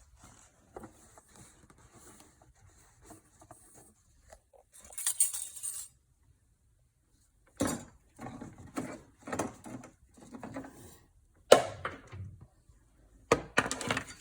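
Things being handled and set down: a short rustle about five seconds in, then a run of separate knocks and clinks about a second apart in the second half.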